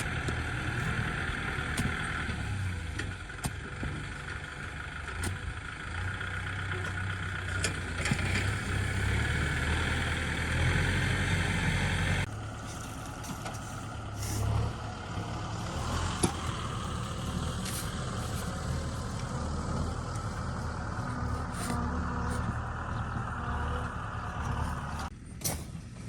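Kubota ZT 155 DI single-cylinder diesel running steadily on a two-wheel hand tractor, with scattered clicks and rattles. The sound changes abruptly a little under halfway through.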